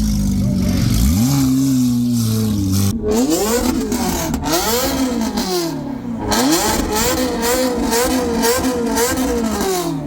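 Car engine being revved hard. A rise about a second in is held briefly, then comes a string of revs that climb and fall, ending in quick wavering blips of the throttle.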